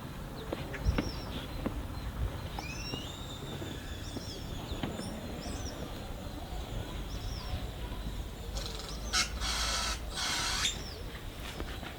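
Small songbirds chirping and twittering over a low, steady rush of a forest stream, with a few soft clicks. About nine seconds in come two short hisses, each about a second long.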